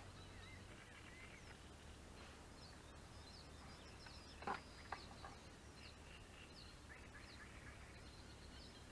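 Near silence with faint birds chirping over and over, and two soft knocks in quick succession about four and a half seconds in.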